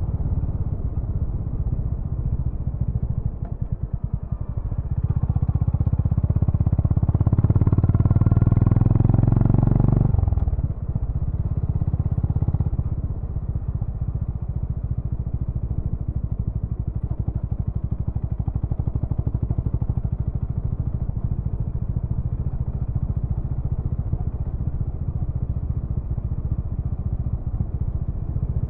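Honda GB350's air-cooled single-cylinder engine and exhaust: the throttle is opened and the note builds for several seconds, is closed abruptly about ten seconds in, and the engine then runs steadily at low revs with an even thump of single-cylinder pulses.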